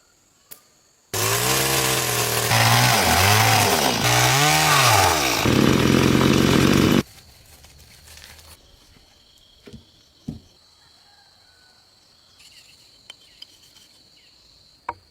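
Chainsaw running and cutting timber for about six seconds, its engine pitch dipping and rising as it works through the wood, then stopping abruptly. After that, a few faint knocks.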